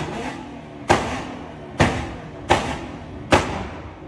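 C7 Corvette's V8 with Kooks headers, its exhaust giving a series of sharp, loud blasts about one per second as the throttle is stabbed, each dying away before the next. The last comes a little after three seconds in.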